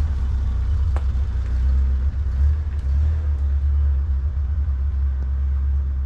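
Open-top kit car's engine running as it pulls away, a steady low rumble, with one sharp click about a second in.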